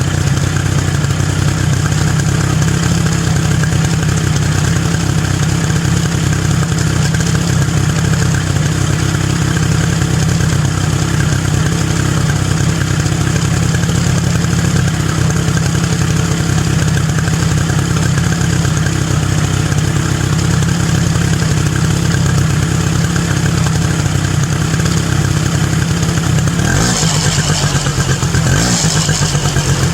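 Polaris ATV engine idling steadily while warming up from a cold start, with two short throttle blips near the end.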